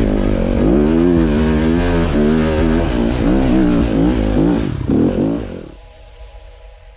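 Dirt bike engine revving, its pitch rising and falling over and over as the throttle is worked on and off. The engine sound drops away sharply about six seconds in, leaving a faint steady hum.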